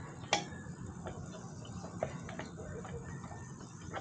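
A band saw blade being fitted into the saw's roller bearing guide: light metal clicks and ticks, with one sharper click about a third of a second in and a few fainter ones after it.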